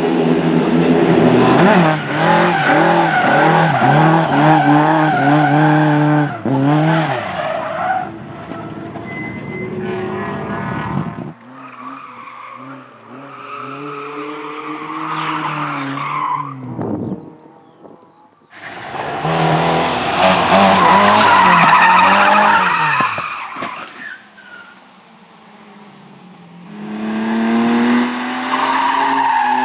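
Race cars at full throttle, engines revving up and dropping back through gear changes, with tyres skidding. It comes in four loud runs with quieter gaps between them, about 7, 5, 5 and 3 seconds long.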